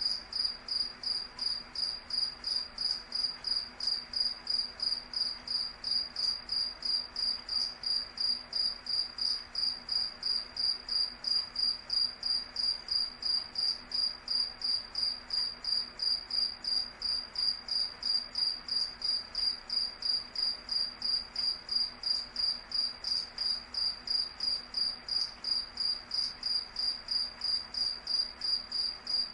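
Cricket chirping: a steady, evenly spaced train of high-pitched chirps that never lets up.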